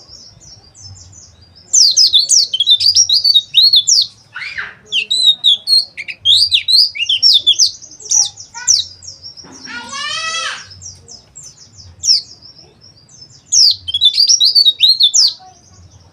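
White-eyes (pleci) twittering: fast, high chirps and trills in loud bursts, with short pauses between them. About ten seconds in comes one harsher call of stacked tones.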